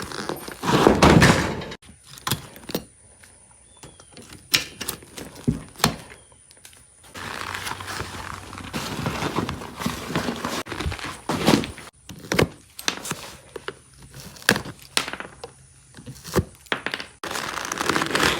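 Irregular knocks, clunks and clatter of hand work on an old car seat being taken apart, with stretches of scraping or rustling, broken into short pieces that start and stop abruptly.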